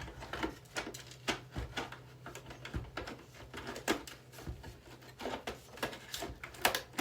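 Hands handling and shifting plastic boombox parts: irregular small clicks and taps, a few louder knocks, over a low steady hum.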